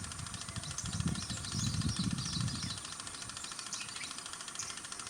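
Birds chirping, with a low rumble under them for the first two to three seconds.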